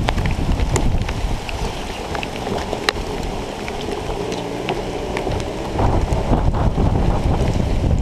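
Motocross bike riding, its engine heard under heavy wind buffeting on the camera microphone, with scattered sharp ticks. The engine picks up and gets louder about six seconds in.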